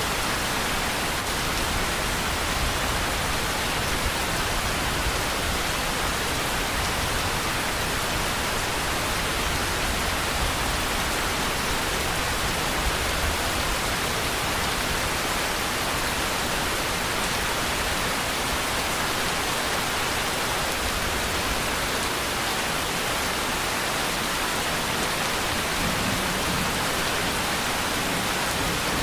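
Steady rain falling, an even hiss with no pauses or thunder.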